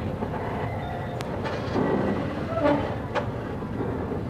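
Passenger train carriage rolling slowly into a station, heard from its open doorway: a steady rumble of wheels on track with a few sharp metallic clanks.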